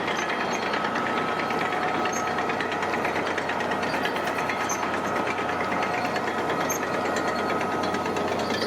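Heavy diesel machinery engine running steadily with a fast, even pulsing and a faint steady whine over it.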